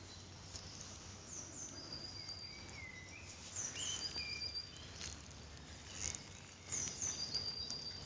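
Small birds singing in the background: short, high, thin whistled notes and quick downward-sliding chirps from more than one bird, over a faint outdoor hush, with a few soft knocks.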